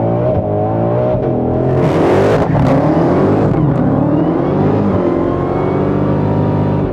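Supercharged V8 muscle car engine revving hard, its pitch sweeping up and down, with a rushing burst about two seconds in. From about five seconds in it is held steady at high revs as the rear tyres spin in a smoky burnout.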